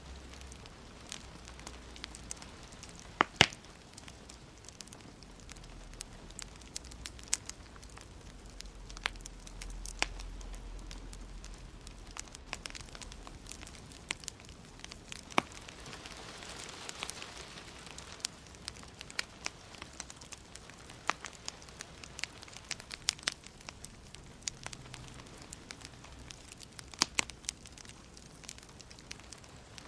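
Wood fire crackling in a fireplace: irregular sharp pops and snaps over a soft hiss, with the loudest pair of pops about three seconds in.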